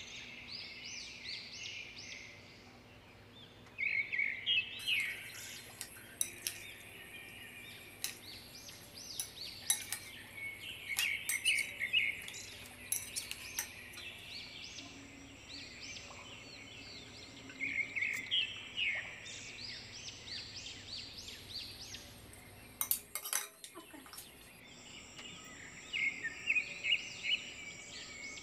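A small bird singing a rapid chirping phrase that comes back every six or seven seconds, with scattered light clinks of cutlery on glass.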